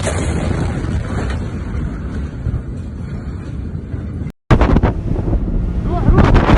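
Loud low rumble with wind buffeting the microphone. It breaks off suddenly about four seconds in, then resumes even louder and builds near the end.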